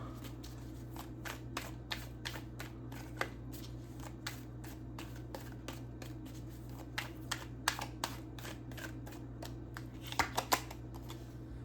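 A deck of reading cards shuffled by hand: runs of quick flicks and snaps of card edges with short pauses between, over a steady low hum.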